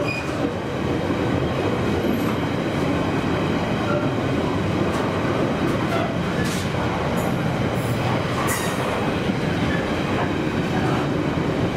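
Freight container train's loaded flat wagons rolling past at steady speed with a continuous rumble and wheel noise. A few short clanks come in around the middle and later on.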